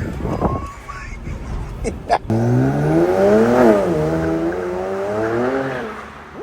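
Car engine and exhaust revving: after a couple of seconds of rough road noise with a few knocks, a steady exhaust note rises in pitch to a peak about three and a half seconds in, then drops back and fades.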